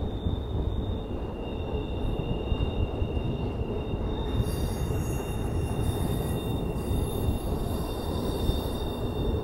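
Freight train rolling across a steel railroad bridge: a steady low rumble with a high, steady wheel squeal on two pitches, the second joining about a second in.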